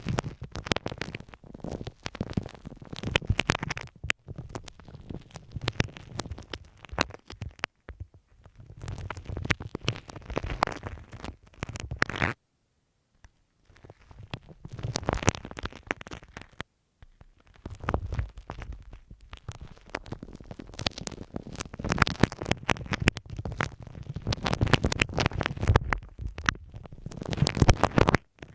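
Spiky ball rubbed and rolled over masking tape on a microphone, giving close, crackly scratching with a deep rumble from contact with the mic. It comes in bursts of a few seconds, with two short pauses.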